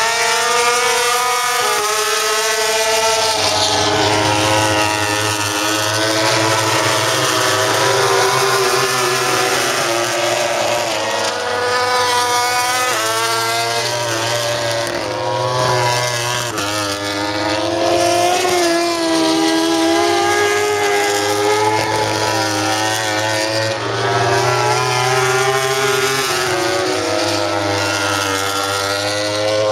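Several racing motorcycles at high revs, their engine notes overlapping and rising and falling in pitch as they pass one after another without a break.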